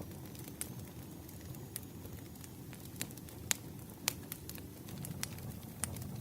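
Firewood burning: a steady low rumble of flames with sharp, irregular crackles and pops, the loudest pair about three and a half and four seconds in.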